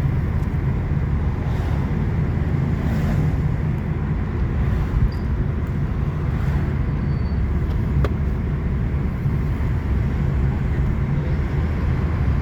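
Car engines running with a steady low rumble, and a single sharp click about eight seconds in.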